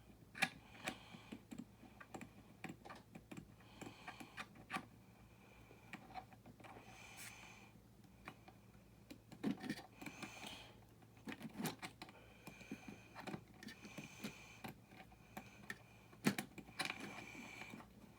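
Small plastic building-brick parts clicking and rattling as they are handled, with short squeaky scrapes, likely from the rope winch roll being turned. The roll does not turn smoothly.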